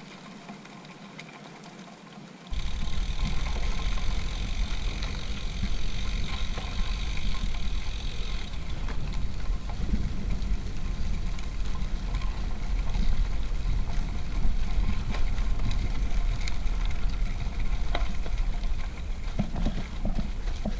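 Riding a bicycle over a gravel dirt road: wind rumbles on the camera microphone, with the bike and stones rattling and knocking over the bumps. The noise starts suddenly a couple of seconds in, and a high steady buzz runs over it for the next several seconds.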